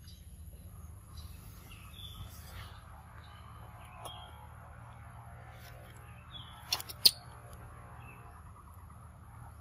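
Birds chirping briefly now and then over a faint steady low hum, with two sharp clicks close together about seven seconds in.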